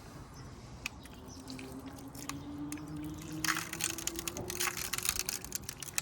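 Block of ice crackling and ticking as hot water melts it and cracks spread through it. Scattered sharp clicks, thickening into a dense run of crackles about three and a half seconds in.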